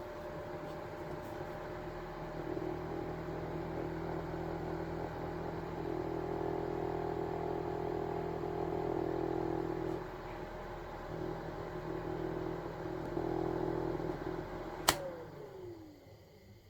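Small battery-powered fan motors in a homemade cardboard air conditioner model whirring steadily, the hum swelling and easing a little. Near the end a sharp click, then the motor winds down in a falling whine as it is switched off.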